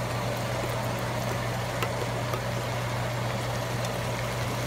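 Chicken breast pieces frying in hot oil in a pan, a steady sizzle and crackle, the meat browning in the oil left after its own juices have cooked off. A steady low hum runs underneath.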